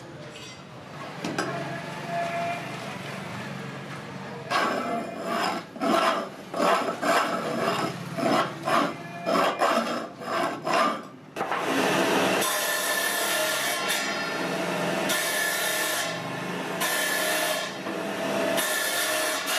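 A hand tool worked back and forth on wood: quick strokes, about one and a half a second, starting a few seconds in, then longer, slower strokes from about halfway.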